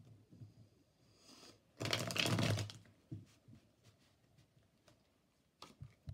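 Tarot cards being shuffled: a short rapid riffle of many fast card clicks about two seconds in, lasting about a second, with a softer rustle just before it and a few light taps of cards around it.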